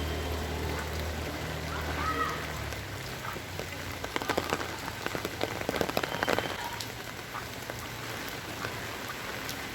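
Heavy rain falling, a steady hiss with close drops striking in quick irregular clicks that are thickest near the middle. A motor vehicle's low engine hum fades away in the first few seconds.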